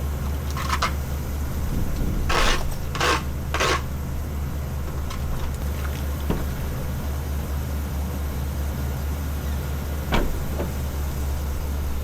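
Ambulance engine running steadily at idle while warming up. Several short knocks or clunks come between about two and four seconds in, and one more near ten seconds.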